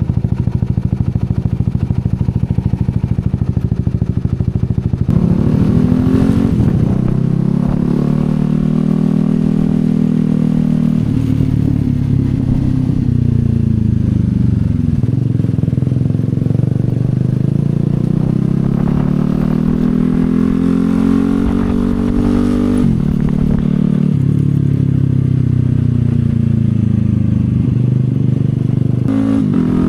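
CFMoto 250SR's single-cylinder engine at idle for about five seconds, then pulling away and accelerating through the gears. Its note climbs and drops back sharply at each upshift, eases off twice, and picks up again near the end.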